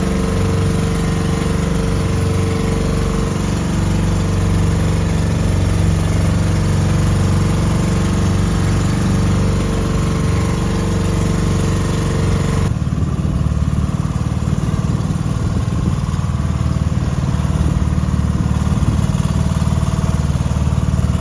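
Boat engine running steadily with a low, even drone. About thirteen seconds in the sound changes abruptly as the higher hiss drops away.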